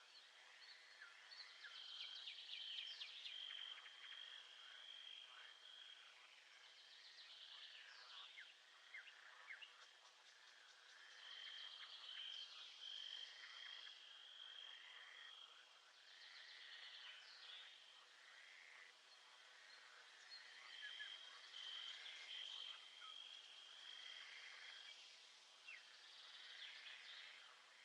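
Faint nature ambience: many birds chirping and calling, with a high, steady trill that lasts a few seconds and comes back about every nine seconds.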